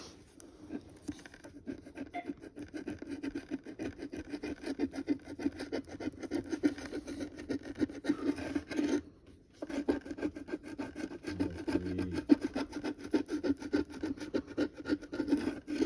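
Scratch-off coating being scratched off a 50 Million Blowout instant lottery ticket, in rapid back-and-forth strokes, with a short pause about nine seconds in.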